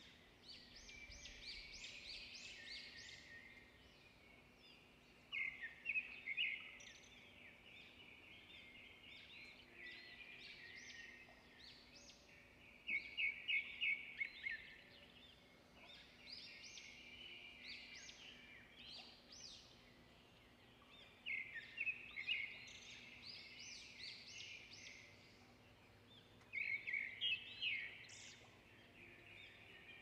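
Birdsong: several small birds chirping and calling, with louder bursts of rapid chirps every six to eight seconds.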